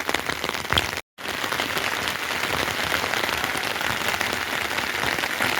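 Heavy rain falling, a dense steady patter of drops. It cuts out for a moment about a second in, then carries on.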